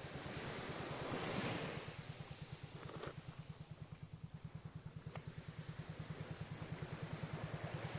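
Ocean surf: a wave washes in, swelling about a second in and then fading, over a steady, rapid low throbbing of several pulses a second, like an engine. There are two faint sharp clicks, about three and five seconds in.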